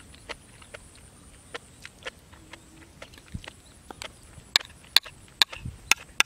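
Close-up eating sounds: a person chewing with sharp, wet mouth clicks, scattered at first, then louder and quicker about four and a half seconds in.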